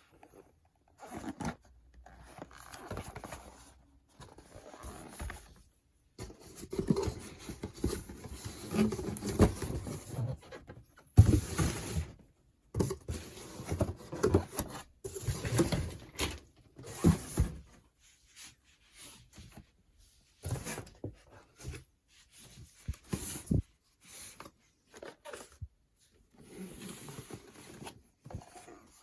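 Irregular rustling, scraping and small knocks of things being handled, coming and going in bursts of a few seconds.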